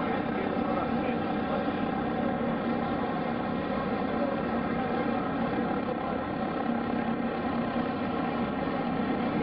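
Propeller aircraft engine running in a steady drone: an even hum with many overtones, holding the same pitch and level throughout.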